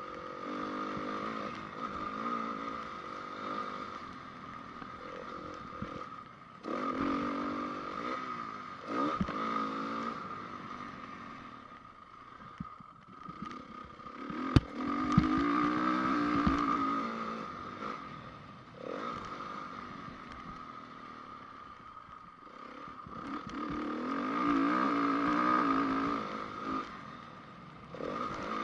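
2010 Honda CRF450's single-cylinder four-stroke engine on a motocross track, revving up hard and backing off again and again, with a few sharp knocks near the middle.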